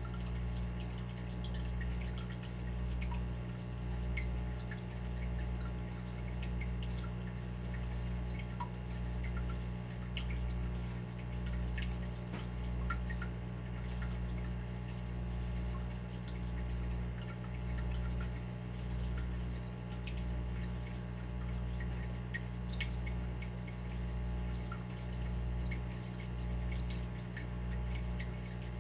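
Water dripping: scattered, irregular drops over a steady low hum that swells and ebbs about every one to two seconds.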